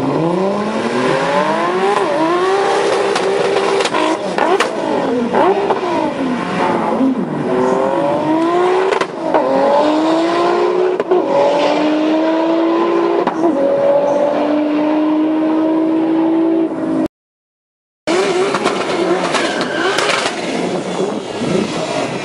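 Turbocharged VW Golf Mk1 R38 engine launching hard and accelerating flat out, its pitch climbing in a series of rising sweeps, each broken by a short drop as it shifts up through the gears. About 17 s in the sound cuts out for a second, then engine noise resumes.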